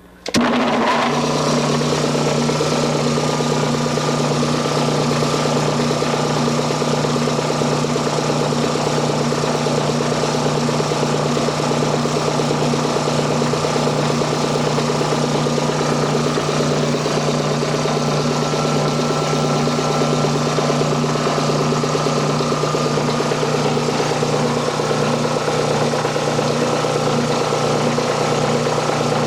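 1940s United States Air Compressor Co. two-stage, two-cylinder air compressor with its 2 hp single-phase electric motor switching on, coming up to speed within about a second, then running steadily as it begins pumping up the tank from zero pressure.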